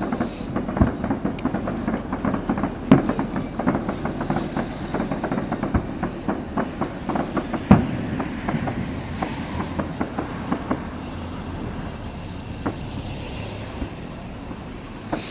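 Fireworks going off: a dense run of rapid crackling pops and bangs, with two louder bangs at about three seconds and near eight seconds in, thinning out over the last few seconds.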